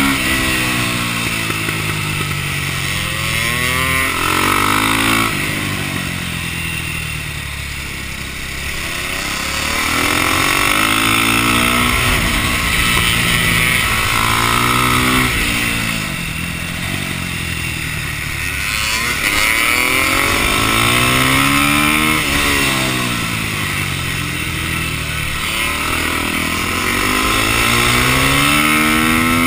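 KTM supermoto's engine heard on board at race pace, revving up through the gears and falling back as it slows for corners, several times over. Wind rushes past the microphone throughout.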